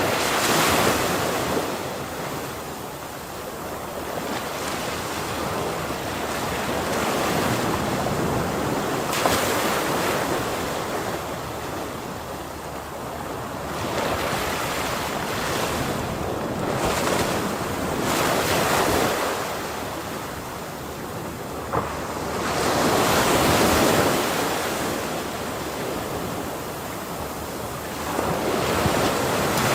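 Ocean surf: waves breaking and washing in continuously, swelling and easing every few seconds, with one brief sharp crack about two-thirds of the way through.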